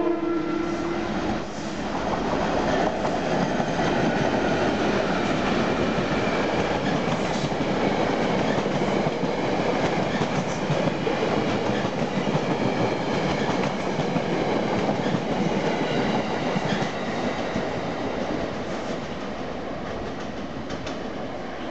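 Metro-North GP35R diesel locomotive's horn cuts off about a second in. The locomotive and the unpowered Maxi-Bomb coaches it is towing then go past with steady rolling and wheel clatter, easing off toward the end.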